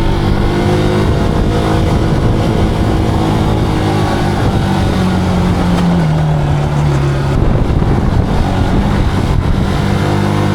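Zontes cruiser motorcycle engine running on the move, its pitch falling and stepping down about six seconds in and again a little later, then climbing again near the end.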